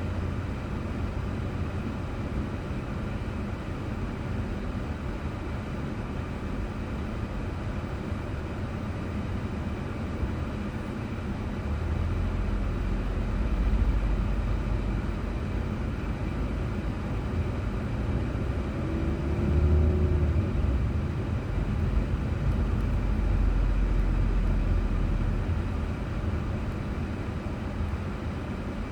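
Car driving on a road, heard from inside through a dashboard camera: low engine and tyre rumble, swelling louder about halfway through and again about two-thirds of the way in.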